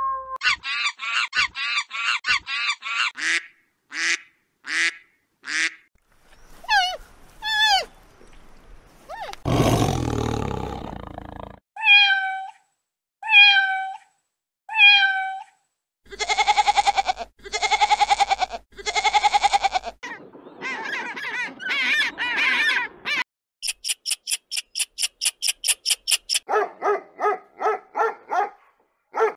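A run of different animals' calls, one clip after another: groups of short repeated pitched calls, a single noisy low call about ten seconds in, and fast high chattering calls near the end.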